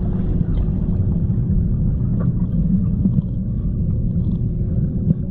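A steady low rumble with a faint steady hum above it.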